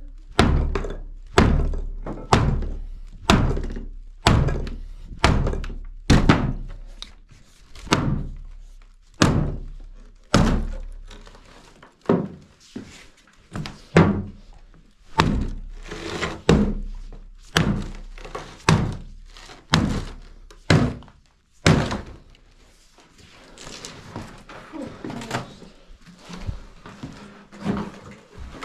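Repeated heavy blows on wood, one to two thudding knocks a second, as old wooden fittings are knocked apart during demolition. After about 22 seconds the blows stop and lighter, scattered knocks and clatter follow.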